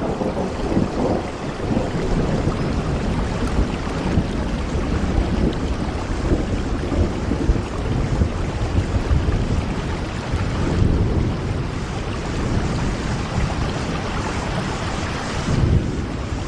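Steady rain falling, heard against a window, with a deep low rumble under the patter.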